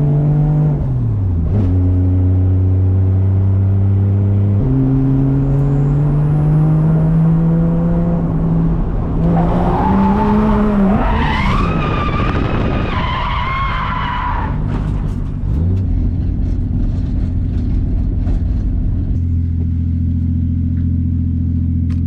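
Drift car engine pulling through gear changes, then revving high in a slide with tyres skidding for about five seconds near the middle, before dropping back to a steady idle near the end.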